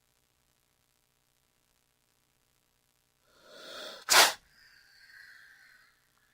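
King cobra hissing: after about three seconds of silence, a soft rush of air, then a sudden sharp burst of hiss at about four seconds, trailing off into a faint hiss.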